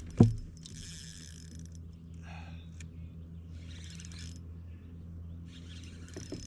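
Fishing reel being cranked in short bursts while reeling in a hooked fish, over a steady low hum, with one sharp knock just after the start.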